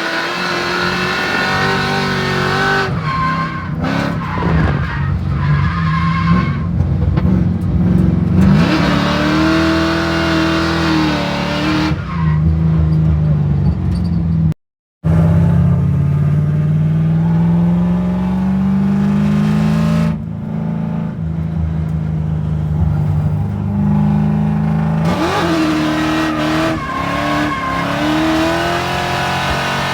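Drift car's 500 hp LS2 V8 engine revving up and down hard under repeated throttle, with a brief sudden cut to silence about halfway through.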